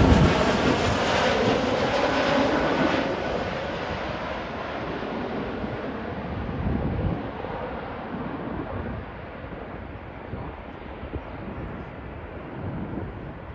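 Landing airliner's engine noise passing and dying away over the first few seconds, then gusty wind buffeting the microphone.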